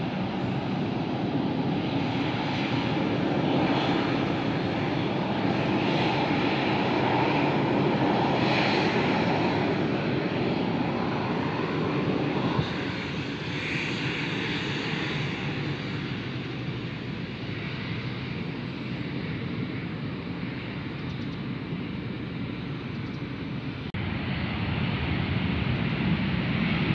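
Jet airliner engines running, a steady rushing sound. It is loudest in the first half, drops suddenly about halfway through, and picks up again near the end.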